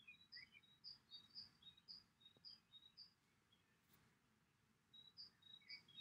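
Faint bird chirping: a run of short, high chirps about two a second, a pause, then another run near the end.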